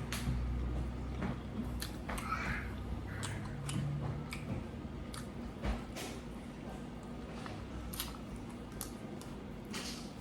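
Chewing and mouth sounds of a person eating, with scattered short clicks.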